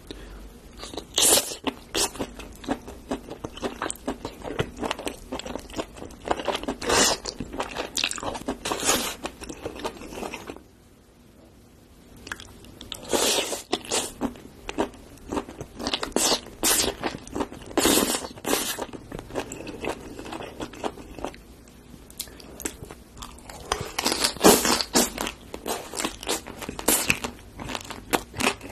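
Close-miked eating sounds: a person biting and chewing spicy seafood with squid and bean sprouts, with wet crunching and smacking in clustered bursts. There is a short lull about ten seconds in.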